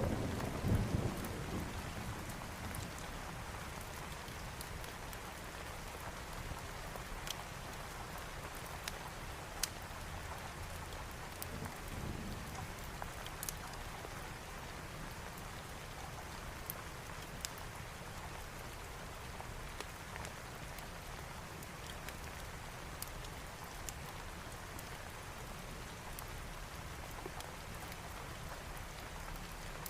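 Steady rain, with a low rumble of thunder in the first couple of seconds and a weaker one about twelve seconds in. Scattered sharp crackles from a wood fire sound now and then through it.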